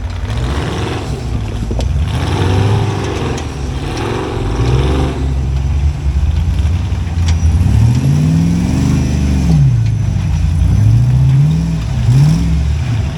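Off-road rig's engine revving in repeated throttle bursts. Its pitch wavers early on, then rises and falls about five times over the last five seconds.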